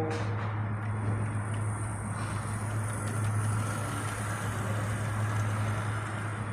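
A steady low hum under continuous rumbling noise, with no clear starts or stops.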